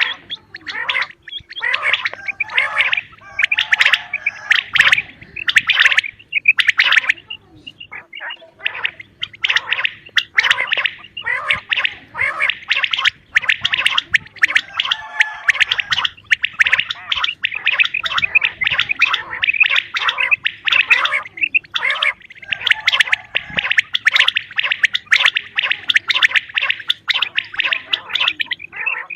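Female common quail calling: rapid, raspy, chattering calls in repeated bouts of a few seconds with short breaks between them.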